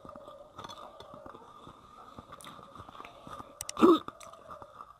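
Close-up mouth sounds of a person chewing rice and fish curry: soft wet smacks and small clicks throughout. Just under four seconds in, a brief, much louder clatter of sharp knocks comes as the water glass is picked up.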